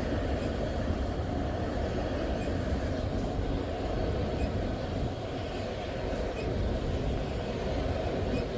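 Norfolk Southern freight train rolling past, its cars making a steady rumble on the rails.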